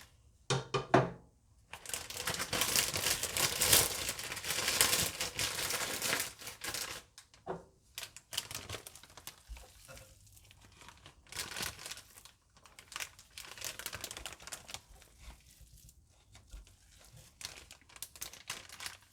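Plastic bag crinkling and rustling as it is handled and filled with a white filling: a long spell of rustling in the first several seconds, then shorter bursts.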